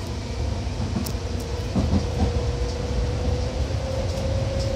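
Seibu 2000 series electric commuter train running, heard from inside the car: a steady low rumble of wheels on rail with a motor tone that slowly rises in pitch, and a few light clacks.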